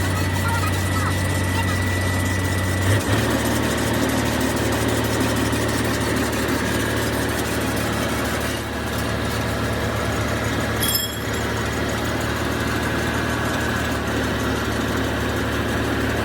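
Steady low hum of an engine or motor running, its pitch shifting slightly about three seconds in, with one brief sharp sound near eleven seconds.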